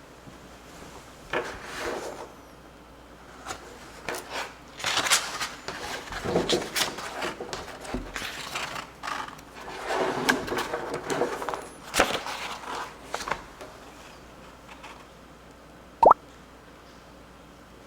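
Objects being handled: irregular scraping and rubbing with scattered sharp knocks, then a short ringing ping near the end.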